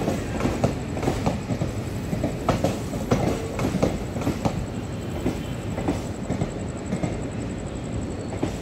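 Indian Railways passenger train running, its wheels clattering over rail joints with a steady rumble underneath. The clatter thins out over the last few seconds.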